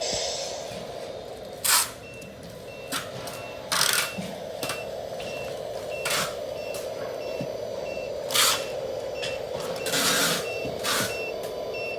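Scale RC truck reversing: its sound module gives a steady engine hum with a rapid series of short reversing beeps starting about two seconds in, and several short hissing bursts in between.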